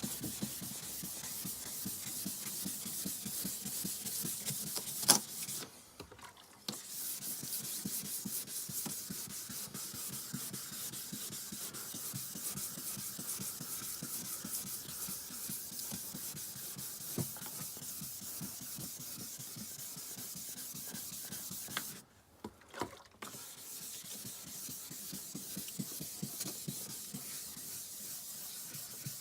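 Hand wet-sanding of a cloudy headlight lens with 2000-grit sandpaper, in rapid back-and-forth rasping strokes. The sanding stops briefly twice, once about six seconds in and again a little past twenty seconds. A single sharp knock comes just before the first pause.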